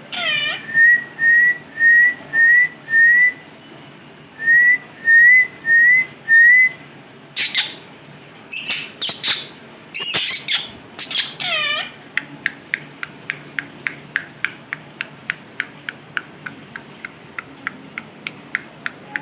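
A pet parrot whistling nine short, rising notes in two runs, five then four, with harsher squawks before and after. Near the end it makes a fast series of short clicking chirps, about four a second.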